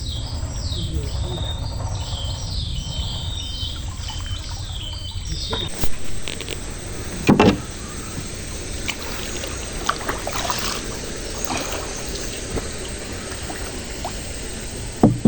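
Bird calling in quick repeated chirps for the first five seconds over a low steady rumble. Then come a few sharp knocks on a small boat, the loudest about seven seconds in and two more near the end, while net-fishing for prawns on the water.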